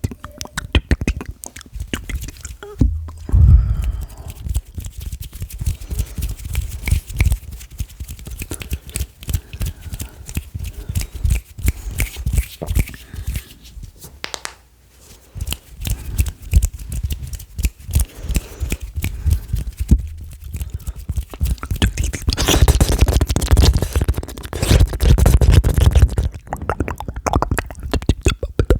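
ASMR mouth sounds: a rapid, irregular stream of wet clicks, pops and smacks made with the mouth. There is a brief lull about halfway through and a denser stretch near the end.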